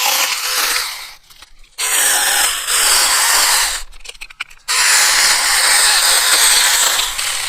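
A Tomyvic 6-inch cordless mini chainsaw (a battery-powered electric saw) cutting through branches in three runs of a few seconds each, with short pauses between cuts.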